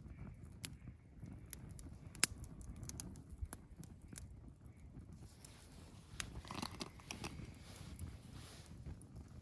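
Wood campfire crackling, with scattered sharp pops over a low steady rumble, and a denser burst of crunchy crackling about six and a half seconds in.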